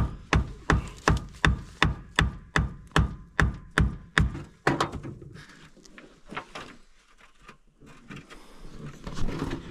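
Rapid hammer blows on the stuck starter of a 1938 Chevy truck, about three a second, stopping about five seconds in: knocking at a starter that seems locked in. Scattered low clunks and handling noise follow.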